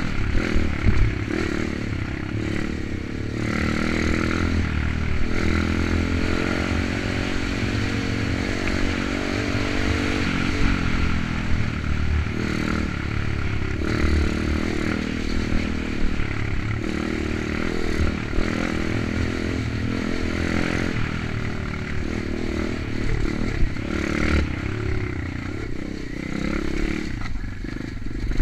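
Kayo 125 pit bike's single-cylinder four-stroke engine being ridden, its note rising and falling again and again as the throttle is opened and closed.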